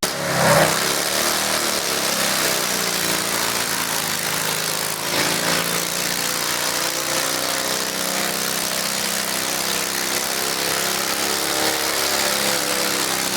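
Garden tractor engine running at a steady speed, with a brief louder burst less than a second in.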